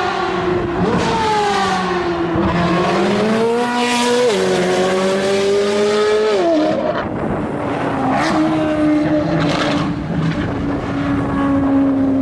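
C8 Corvette Z06's flat-plane V8, fitted with an aftermarket exhaust, accelerating hard: its pitch climbs and drops sharply at two upshifts about four and seven seconds in, then holds a steady high pitch.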